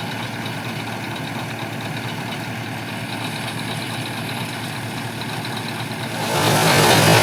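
Mahindra 475 tractor's diesel engine running steadily at idle. About six seconds in, a much louder, noisier sound sets in over it.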